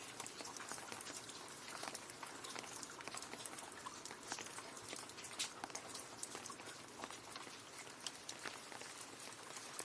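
Steady rain falling into a puddle: a soft, even hiss with many small, scattered drop splashes and plinks.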